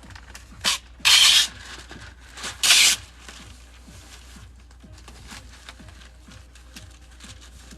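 Masking tape being pulled off the roll for masking paper: two short rasping tears, each led by a brief smaller pull, about a second in and again near the three-second mark.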